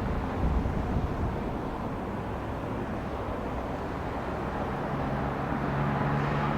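Jet airliner engines running on the airfield: a steady rumble, with a low hum coming in about five seconds in.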